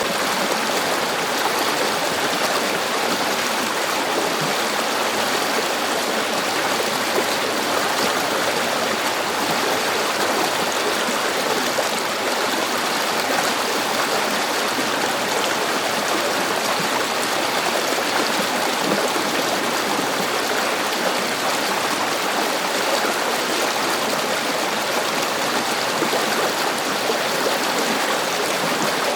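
River water flowing over rocks, a steady rushing and babbling with no change throughout.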